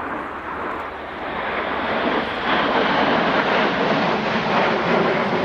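Jet noise from the Red Arrows' formation of BAE Hawk T1 trainers, a steady rushing roar that grows steadily louder as the formation approaches.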